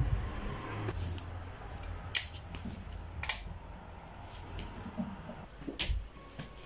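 A few sharp clicks, three of them standing out, among soft low thuds, like small objects being handled.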